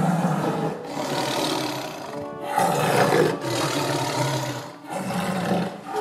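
Tiger roaring and growling in a run of long, rough roars, each about one to one and a half seconds, with short gaps between.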